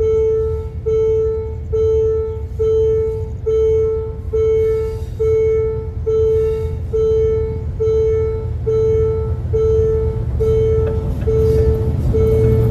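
Railway level-crossing warning alarm sounding a repeating electronic tone, a little more than one beep a second, over a low rumble that grows louder near the end.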